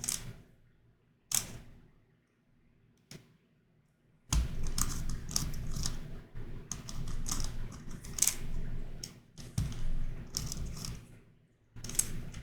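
Plastic twisty puzzle, a YuXin Corner Helicopter 2x2, being turned by hand. Three separate clicks come in the first few seconds, then from about four seconds in there is a run of rapid clicking and clattering turns lasting about seven seconds.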